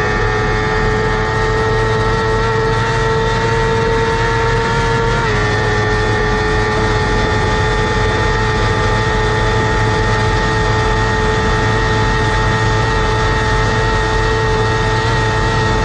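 Superbike engine running at high, steady revs, its note dropping slightly once about five seconds in, as on a gear change.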